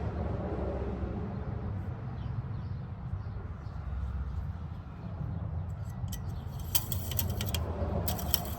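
Light metallic clicks and rattles from about six seconds in, lasting two or three seconds: an engine oil dipstick being slid through its tube to check the oil level. Under it, a steady low background rumble.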